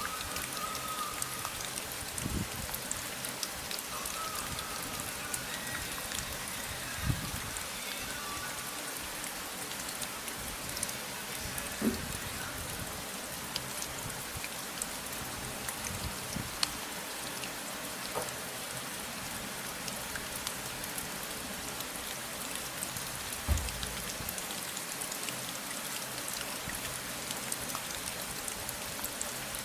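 Steady rain falling, an even hiss with a patter of individual drops and a few louder heavy drops landing now and then.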